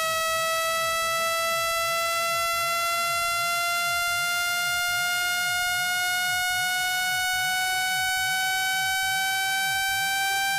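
Electronic speaker-cleaning tone: one continuous, buzzy test tone rich in overtones, gliding slowly and steadily upward in pitch.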